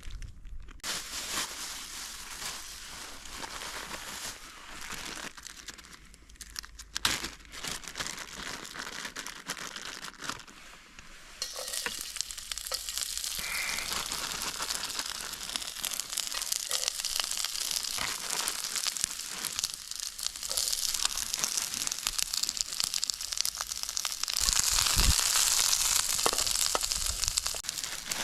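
Food sizzling in a pan over a stick stove's wood fire, a dense crackling hiss. It grows louder about twelve seconds in and again near the end.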